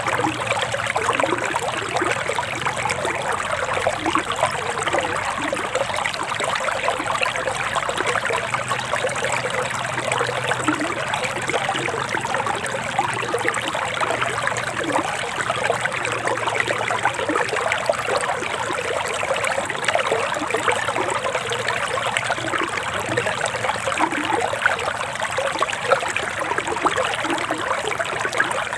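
Forest stream flowing and trickling over stones, a steady, even rush of water.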